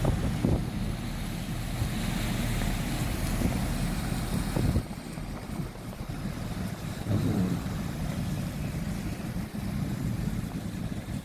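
Steady road and wind noise of a car driving, with a low rumble underneath; the higher hiss drops off and the sound gets quieter about five seconds in.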